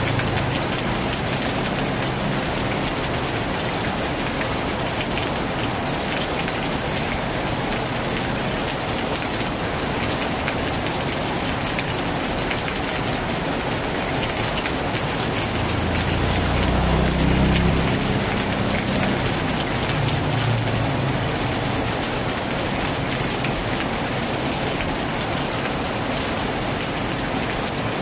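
Heavy rain falling steadily on a tin roof. A low rumble swells for a couple of seconds about sixteen seconds in and briefly again a few seconds later.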